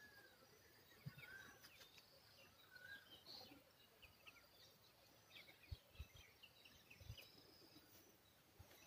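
Faint chirps and calls of several small birds, with a few soft low thumps.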